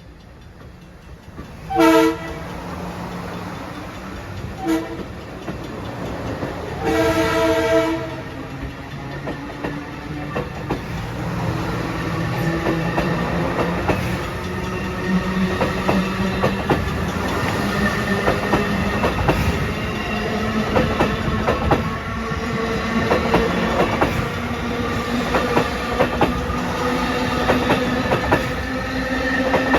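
LIRR M3 electric multiple unit sounding its chord horn: a short blast, a brief toot, then a longer blast, a thank-you to a waving railfan. The train then pulls out, its motor whine slowly rising and getting louder as the wheels click over the rail joints.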